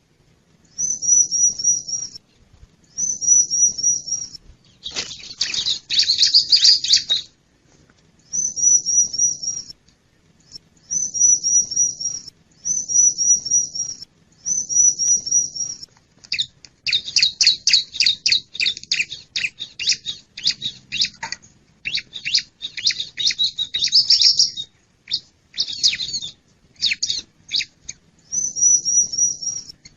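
Bar-winged prinia (ciblek) calling: short, high trilled phrases repeated about every two seconds, broken twice by longer bursts of rapid, excited chattering, once about five seconds in and again for much of the second half.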